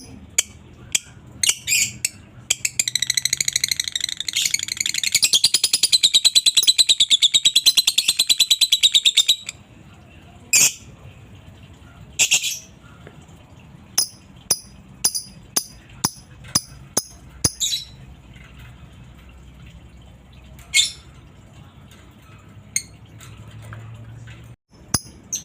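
Lovebird calling, with a long rapid rattling trill (the 'ngekek' song) lasting about seven seconds, then sharp single high chirps at irregular intervals.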